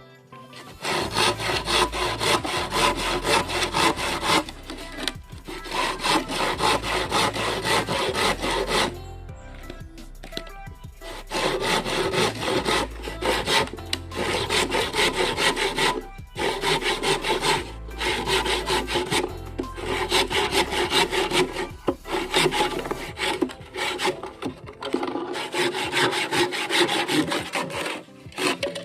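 Saw cutting through bamboo with rapid back-and-forth strokes, in several long runs separated by short pauses.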